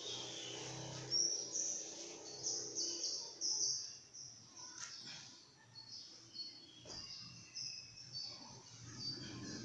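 Small birds chirping in a quick run of short, high notes, busiest in the first few seconds, over a faint low hum, with a couple of soft knocks in the middle.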